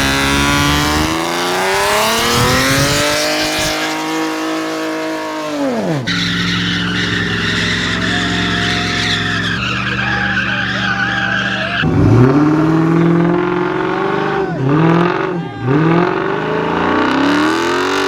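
Car engine revving hard during a burnout with the tyres squealing. The revs climb over the first few seconds and drop sharply about six seconds in. They are then held steady while the tyres squeal, and near the end they rise and fall several times.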